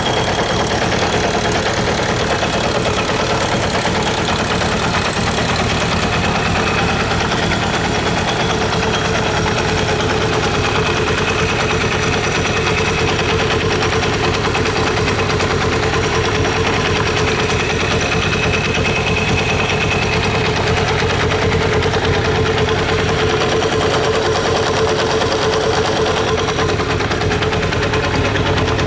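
Kawasaki Zephyr 750RS air-cooled inline-four engine idling steadily, with no revving.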